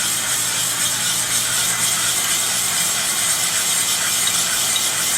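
Cylinder hone spinning in the bore of a Briggs & Stratton 5 HP engine block, a steady whirring with a faint low hum, cleaning up the cylinder wall.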